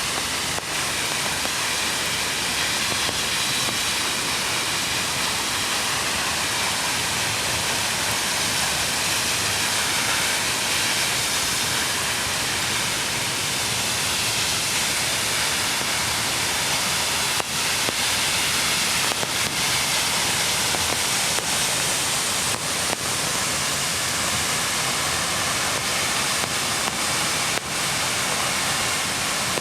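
Mountain creek rushing over rocks: a steady loud hiss of water, with a few faint taps in the second half.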